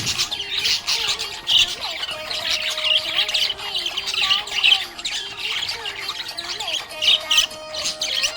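Budgies (budgerigars) chirping and chattering nonstop, with quick, overlapping high calls.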